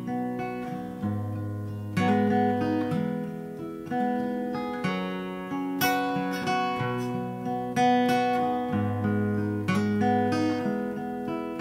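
Acoustic guitar playing the slow instrumental introduction of a song, a fresh chord plucked about once a second and left to ring.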